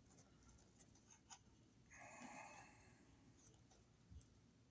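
Near silence, with a few faint small clicks and a brief soft scratchy rustle of electrical wires being handled and lined up.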